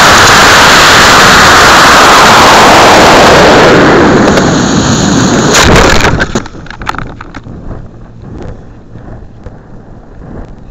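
Model rocket motor firing at lift-off, a loud, distorted rush of noise that fades after about five seconds. A sharp crack comes about six seconds in, then quieter wind rush with scattered crackles and clicks.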